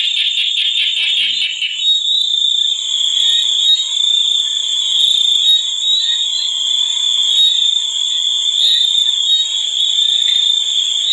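Nature chorus of calling insects and frogs: a steady, shrill high-pitched drone, with a rapid pulsing trill over it in the first two seconds.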